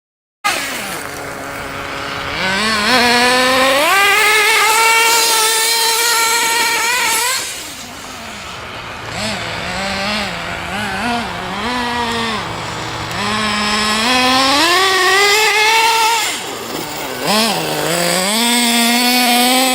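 Nitro RC car's big-block glow engine running under throttle as the car is driven: it climbs to a high, steady scream and holds for a few seconds, drops back, blips up and down several times, then climbs and holds again, twice more.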